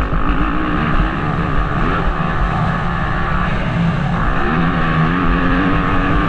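Motocross bike engine revving up and down as it is ridden, the pitch rising and falling, heard from a helmet-mounted camera with wind rumbling on the microphone.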